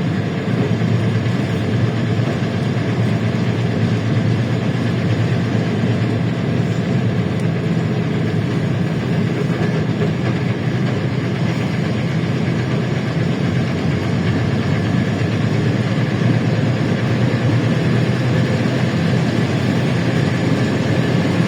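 LiAZ-677M city bus under way, heard from inside the passenger cabin: a steady low drone of its ZIL V8 petrol engine mixed with road and body noise.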